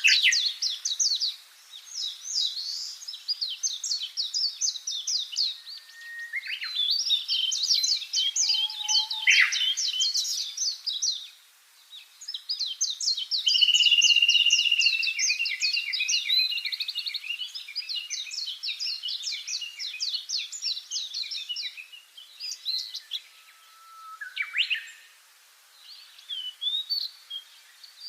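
Birds chirping and singing in fast, high trills of many short notes, coming in runs of several seconds with brief pauses.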